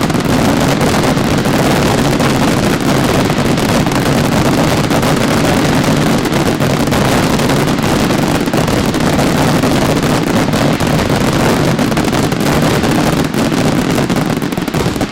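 Fireworks in a dense, continuous barrage, countless rapid explosions and cracks merging into one loud steady roar that stops suddenly at the very end: a closing barrage.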